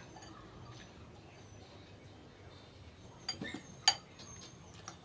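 Eating utensil clinking against a dish a few times, with the sharpest clink about four seconds in.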